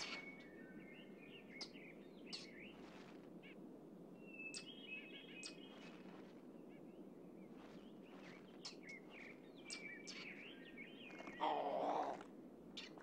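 Wild birds chirping and whistling in short scattered calls over a steady background hiss. Near the end comes one louder noisy burst lasting under a second.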